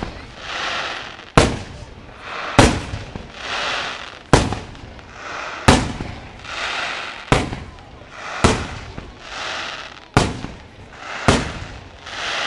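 Aerial firework shells bursting in a steady sequence: eight sharp bangs, one about every second and a half. Between the bangs runs a hiss that swells and fades.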